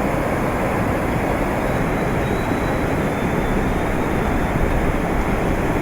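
Floodwater rushing through a city street: a steady, unbroken rushing noise.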